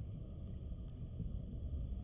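Low, steady outdoor rumble, with one faint short tick about a second in.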